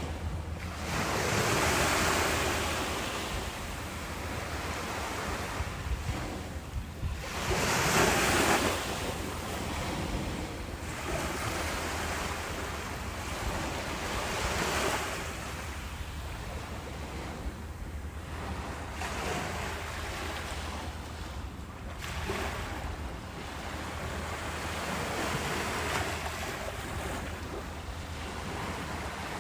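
Ocean surf breaking and washing ashore, swelling and falling back every few seconds, with the biggest surges about 2 and 8 seconds in.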